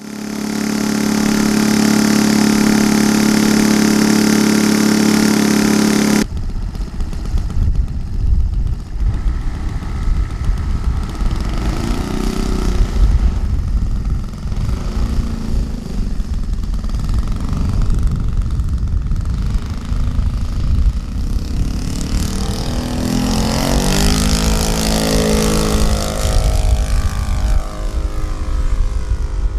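Saito FG-50 four-stroke petrol engine on a model aerobatic plane, running at a steady high pitch for about six seconds, then cut abruptly to a fainter engine note under heavy wind rumble on the microphone. Later the engine's pitch rises and falls as the plane manoeuvres and passes.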